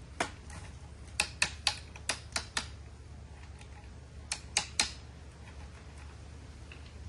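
A series of sharp clicks or taps in two bursts, about three or four a second, over a low steady hum.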